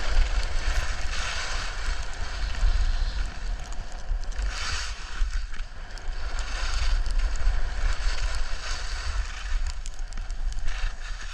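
Wind buffeting the microphone with a steady low rumble, while skis hiss and scrape over snow in swells about every two seconds, as on linked turns down a run.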